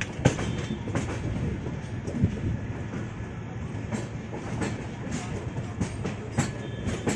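Moving train: the Tamil Nadu Express's LHB passenger coach running on the rails, with a steady low rumble and irregular sharp clacks of the wheels over rail joints.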